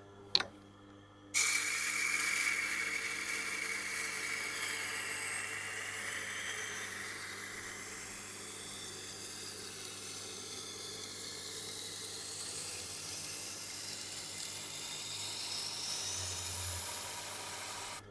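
Steel knife blade being ground against a Tormek's water-cooled grindstone: a steady scraping hiss starts about a second and a half in, over the low hum of the machine's motor. A single sharp click comes just before it.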